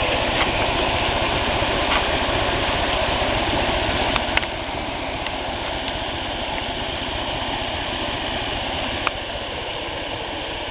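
Steady rushing water from a creek or falls, a dense continuous noise that drops slightly about four seconds in. A few sharp clicks come about four seconds in and near the end.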